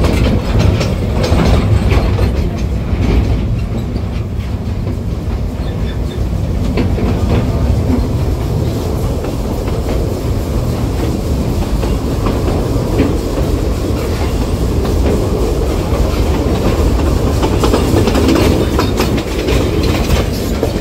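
A narrow-gauge train running along the track, heard from an open-sided carriage: a steady rumble of the wheels on the rails with a clickety-clack of rail joints.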